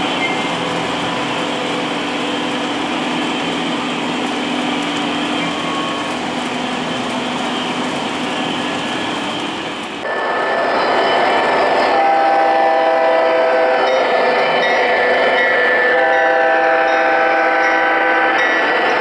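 O gauge model train running on the layout, its wheels and onboard sound system making a steady rolling rumble. After an abrupt change about halfway, the locomotive's sound system plays a multi-tone train horn in long blasts.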